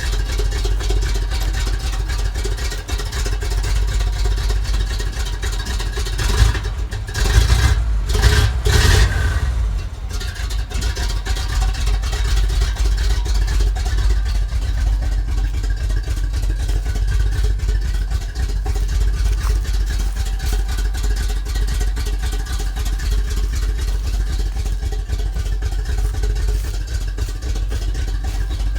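Ford F350's 460 (7.5-litre) fuel-injected big-block V8 running. The engine is revved briefly a couple of times about seven to nine seconds in, then settles back to a steady idle.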